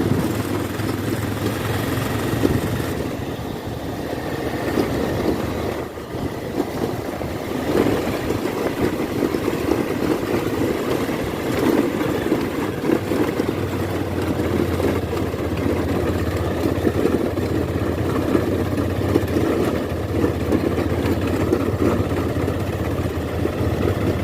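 Motorcycle engine running steadily while riding, its note easing for a few seconds near the start before settling again.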